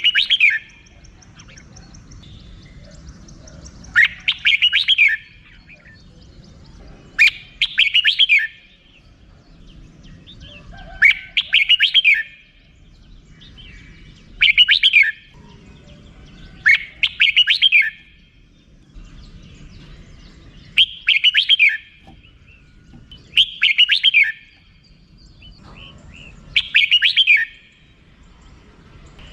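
Red-whiskered bulbul giving its repeated 'rik' call. Short bursts of about a second each come nine times, roughly every three seconds.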